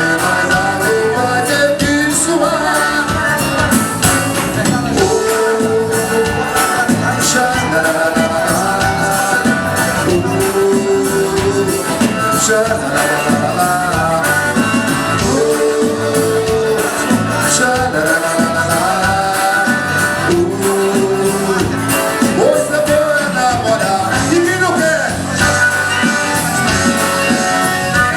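Forró song performed live: a male singer over accordion and percussion.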